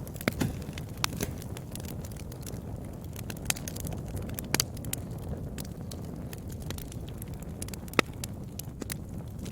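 Wood fire burning in a fireplace: a steady low rush of flames with irregular sharp crackles and pops, the loudest pop about eight seconds in.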